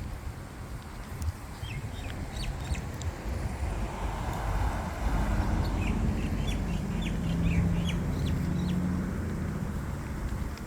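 Birds chirping in many short, high calls over a low, steady outdoor rumble.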